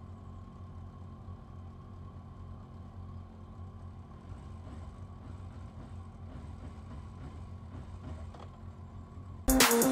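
Motorcycle engines running at idle, the nearest the rider's own Yamaha FZS600 Fazer inline-four with an aftermarket Bos exhaust, a steady low hum. Loud electronic music with a heavy beat cuts in suddenly just before the end.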